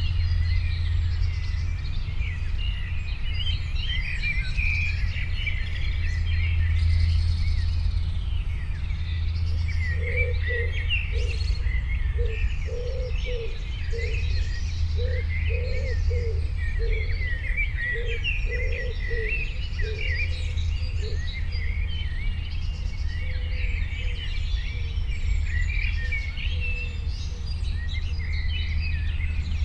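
Many birds chirping and twittering without a break over a steady low rumble. About a third of the way in, a low note starts repeating about twice a second and runs for roughly ten seconds.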